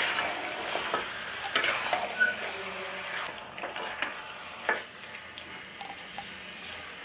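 Raw chicken pieces sizzling in spice paste in a metal pan while a metal spatula stirs them, with scattered scrapes and knocks of the spatula against the pan. This is the early frying stage, with the meat being turned through the masala.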